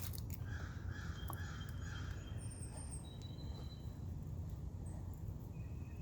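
Birds calling: a run of four quick, evenly spaced calls in the first two seconds, and thin high chirps from other birds scattered through, over a steady low background hum.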